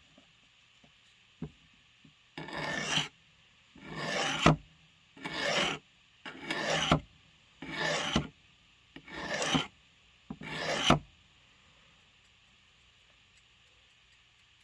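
Blade edge being drawn across a sharpening stone in seven slow, even scraping strokes about a second and a half apart, starting a couple of seconds in and stopping about three-quarters of the way through.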